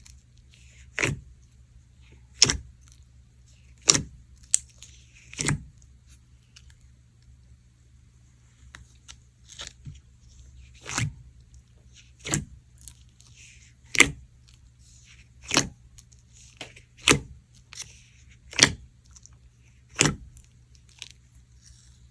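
Flake slime with rainbow flakes being squeezed and pressed by hand. It gives a sharp pop or snap about every one and a half seconds, with a faint crinkly crackle of the flakes in between.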